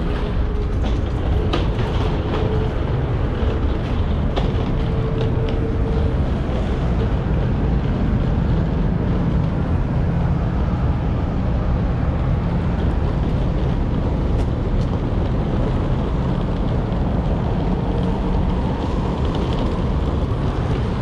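Steady, loud, low engine rumble, with a faint steady hum above it that stops about six seconds in.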